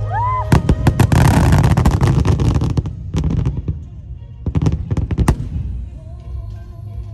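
Aerial fireworks: a short rising whistle, then sharp bangs and a dense crackling stretch, followed by scattered single bursts that thin out near the end. Music plays underneath.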